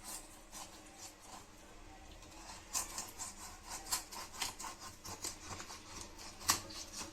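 Irregular light clicks and rubbing as hands work a whole raw chicken in a baking tray, opening it out. The clicks come thicker from about three seconds in, with one sharper knock near the end.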